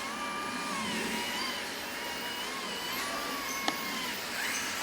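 Small electric motors of radio-controlled model trucks and construction machines whining, their pitch rising and falling as the throttle changes. A single sharp click comes about three and a half seconds in.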